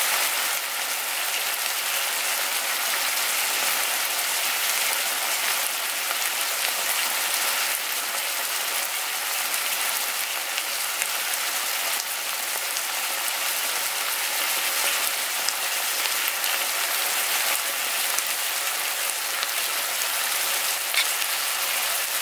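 Chicken adobo with potatoes and onions sizzling in a frying pan as its sauce cooks down: a steady, rain-like crackling hiss.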